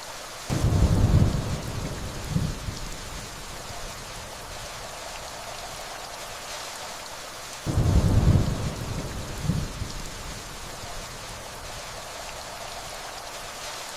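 Steady rainfall with two rolls of distant thunder, one about half a second in and another about eight seconds in; each is a low rumble that swells, eases and swells again briefly before fading back into the rain.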